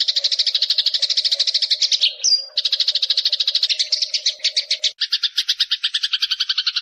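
Eurasian tree sparrows chirping in a fast, unbroken chatter of about a dozen high notes a second. A short rising note comes about two seconds in, and the series shifts lower about five seconds in. A faint steady hum lies under the first five seconds.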